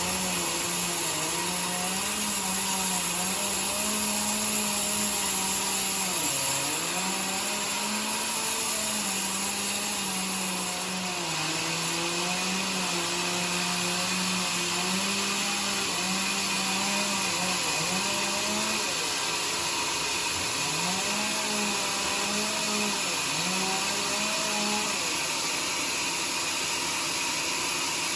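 Homemade sawmill running through a johar (kayu joar) log: a steady machine hum under a dense high-pitched cutting hiss. The hum's pitch sags briefly a few times, around a quarter of the way in and again about two-thirds through, then recovers.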